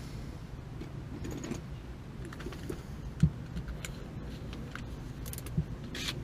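Light metallic clicks and rattles of parts and tools being handled, with one louder knock about three seconds in and a quick run of clicks near the end, over a low steady rumble.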